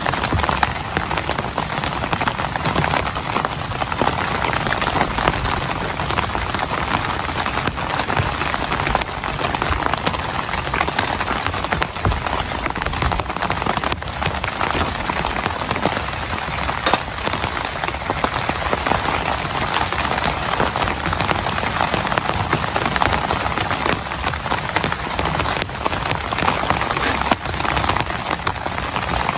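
Heavy rain falling steadily: a dense, even hiss made up of many small drop hits, with no letup.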